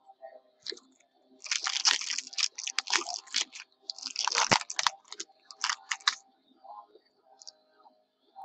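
Crinkling and rustling of trading card pack wrappers and cards being handled, in dense bursts from about a second and a half in until about six seconds, then only a few faint ticks.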